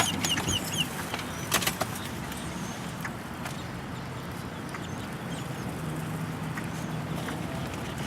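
A bird gives a quick run of about five short chirps right at the start, followed by a couple of sharp clicks, over the steady low hum of a running car.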